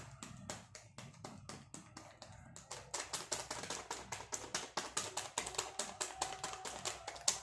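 Rapid, regular tapping, sparse at first and then about four to five taps a second from about three seconds in.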